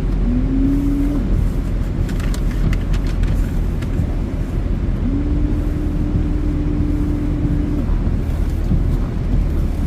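Strong dust-storm wind rumbling steadily against the microphone. A steady hum-like tone is heard briefly about half a second in, and again for nearly three seconds in the middle.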